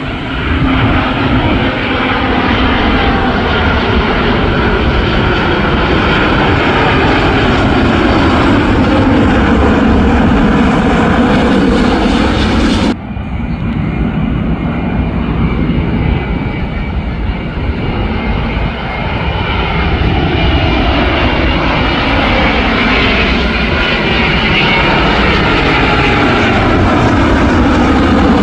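Jet airliners on final approach passing low overhead, a steady engine roar with tones gliding down in pitch as each goes by. It cuts abruptly about halfway through to a second arrival.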